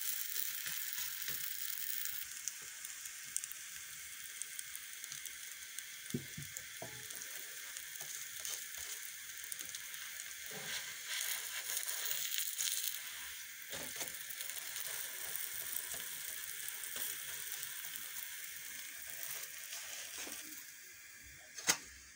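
A paratha frying in oil on a non-stick tawa: a steady sizzling hiss that slowly fades, with scattered small ticks and crackles. There is one sharp click near the end.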